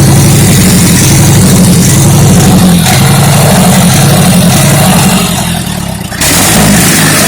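Wisconsin 30 HP four-cylinder engine on a Mayco concrete pump running steadily, brought back to life after years of sitting. Its sound sags from about five seconds in and comes back up sharply just after six seconds.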